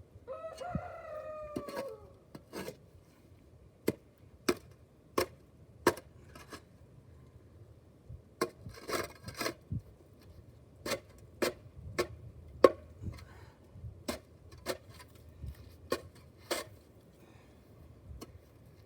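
A rooster crows once near the start, one long call that drops in pitch at its end. It is followed by a long series of sharp knocks, about one every 0.6 s, with a pause in the middle.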